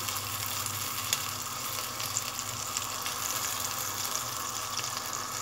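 Blended onion paste frying in hot ghee in a nonstick saucepan as it is stirred with a spatula: a steady wet sizzle with faint scattered ticks, the raw onion being cooked off.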